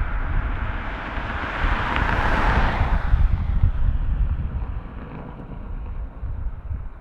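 Jet airliner passing close on its landing approach: engine noise swells to a peak about two seconds in, then fades away. Wind rumbles on the microphone throughout.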